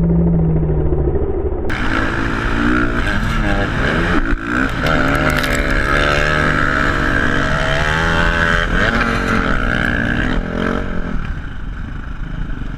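Dirt bike engine revving up and down, its pitch rising and falling repeatedly. About two seconds in, the sound changes suddenly from muffled to clearer and brighter.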